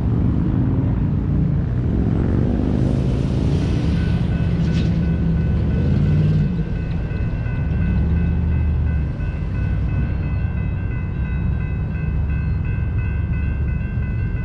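Diesel locomotives passing with a heavy, wavering engine rumble. From about four seconds in, a steady chord of several high tones sounds over the rumble.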